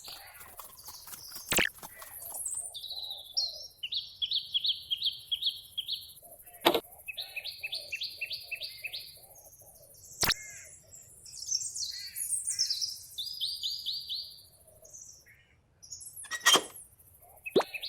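Birds chirping in short, rapid high trills, with a lower pulsing call in two runs and four sharp clicks spread through it.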